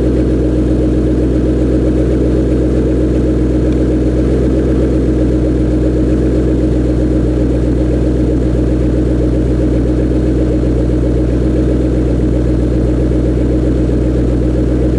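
2007 Shelby GT's 4.6-litre V8 idling steadily through Ford Racing GT500KR axle-back mufflers, warming up after a cold start.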